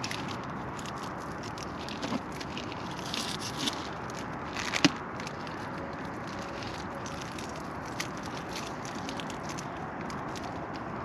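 Wood campfire crackling over a steady hiss, with scattered pops and one sharp snap about five seconds in.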